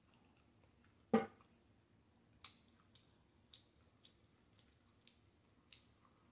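Close-miked eating of a chicken taco: faint wet mouth clicks and smacks every half second or so, with one louder short sound about a second in.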